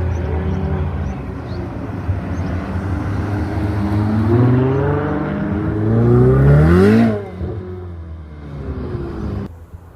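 Car engine accelerating hard, its note climbing steadily for about three seconds to a loud peak about seven seconds in, then falling away quickly.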